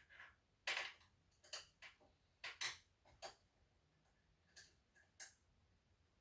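Scattered light clicks and taps, about seven at uneven intervals, against a quiet background.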